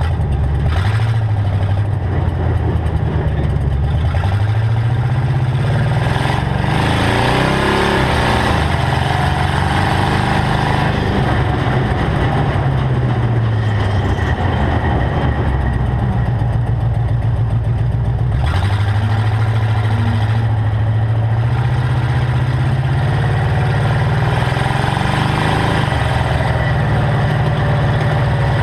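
Engine of a custom hot rod heard close from its hood as it drives, the pitch climbing and falling with speed and changing abruptly about two-thirds of the way through.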